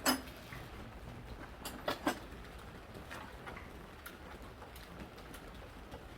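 Short sharp clicks and knocks of tools and parts being handled during engine assembly: a strong one at the start, a close pair about two seconds in, and a few fainter ticks later, over a low rumble.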